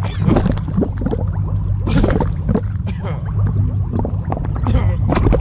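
Gore sound effect of wet squelching and gurgling, many short squishes in quick succession over a steady low hum.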